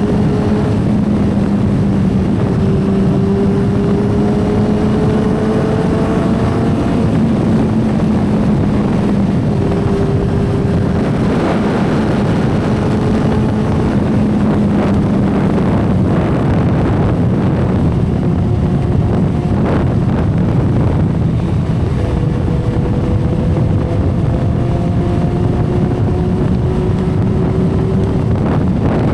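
2012 Kawasaki Ninja ZX-10R's inline-four engine running at expressway speed under heavy wind rush on the microphone. The engine note climbs slowly in pitch several times, each time dropping back and climbing again.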